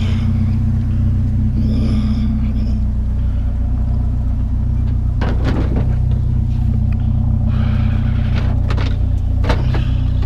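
Vehicle engine idling steadily with a low hum. A few short knocks and clatters come in the second half as a chair is handled.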